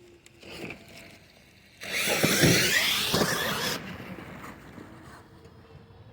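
Radio-controlled monster truck running close by for about two seconds, its motor whine rising and falling over the noise of its tyres on the ground.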